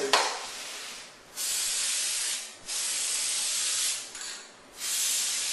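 Aerosol can of dry-coating lubricant spraying in three hissing bursts of about a second each, applied to the pipes of PVC patio furniture to stop them squeaking.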